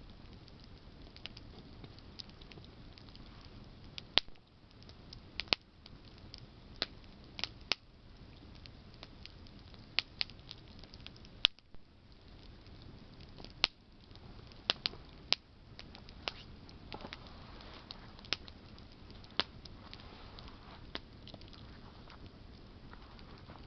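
Wood campfire of burning branches crackling: irregular sharp pops and snaps, a few much louder than the rest, over a steady low hiss of the flames.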